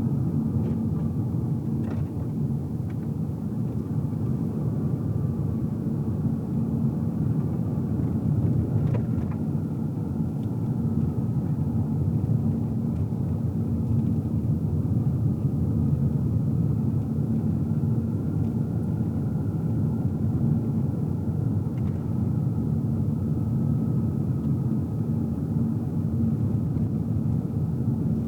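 Car interior while driving: a steady low rumble of tyre road noise and engine, with a faint thin whine that drifts slightly in pitch and a few faint ticks.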